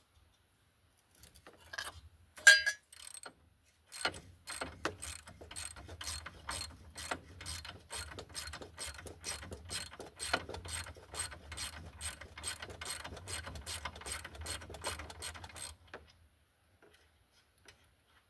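Ratchet wrench clicking at a steady pace, about two to three clicks a second, for some twelve seconds as it works a nut loose, most likely the tie rod end nut. A single sharp, ringing metal clink of a tool comes about two seconds in.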